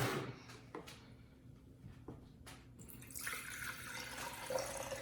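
Water poured from a glass into a large glass container, starting about three seconds in, after a few faint clicks of glassware being handled.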